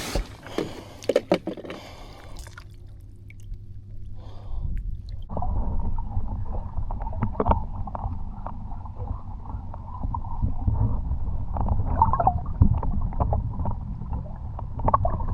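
A few knocks and handling sounds, then about five seconds in a steady low rumble of a small boat under way starts, with thumps and wind through it.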